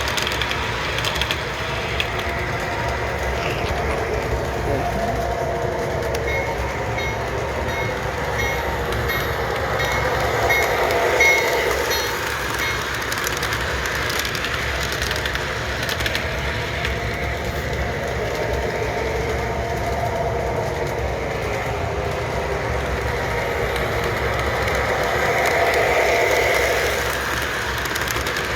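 Model train set running around its track: a steady electric motor hum with wheels rattling on the rails, its whine wavering in pitch and swelling louder about ten seconds in and again near the end.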